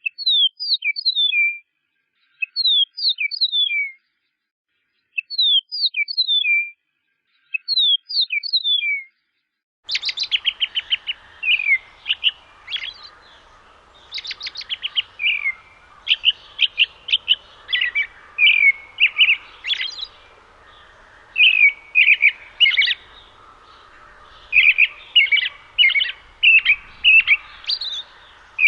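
Songbirds singing. First come four short phrases of quick, downward-slurred high notes, each separated by silence. About ten seconds in, a different recording with background hiss takes over, full of busy, rapid chirps and trills.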